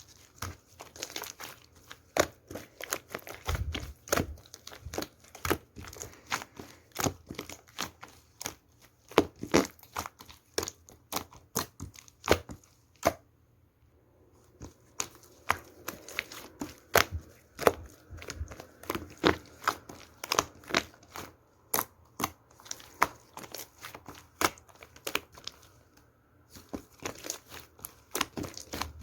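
Shaving-foam slime being squeezed, poked and stretched by hand, giving a dense run of irregular sharp crackles and pops from trapped air, with short lulls about halfway through and near the end.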